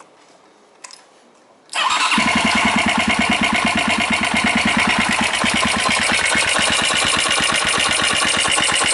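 Honda FTR223's single-cylinder four-stroke engine, breathing through a Moriwaki ZERO aftermarket muffler and a Yoshimura TMR-MJN carburettor, is started. After a small click it fires suddenly, a little under two seconds in, and runs steadily with an even exhaust pulse.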